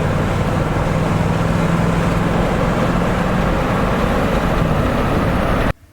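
Motor vehicle driving: steady engine and road rumble with a low hum, cutting off suddenly near the end.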